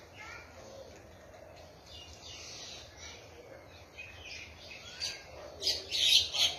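Small birds chirping, scattered short calls over a faint background hiss, with a loud burst of chirping about six seconds in.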